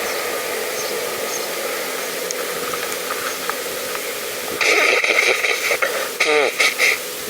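Steady wind hiss on the microphone of a moving bicycle. About halfway through, louder bursts of rough noise come for a couple of seconds, with a brief gliding pitched sound among them.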